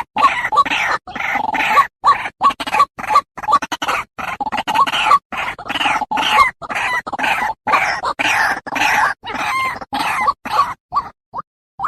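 White-breasted waterhen calls from an edited call mix: rapid, repeated croaking and clucking notes, chopped by abrupt silent cuts, thinning to a few short notes near the end.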